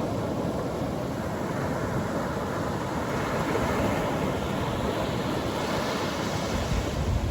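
Atlantic Ocean surf breaking and washing up the beach, a steady rush that swells about halfway through, with a low rumble building near the end.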